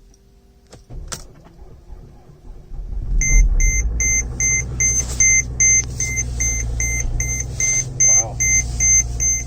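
An older Mercedes-Benz diesel engine cold-starting in deep frost: after a click about a second in, it catches about three seconds in and keeps running, while an in-car warning chime beeps about two to three times a second.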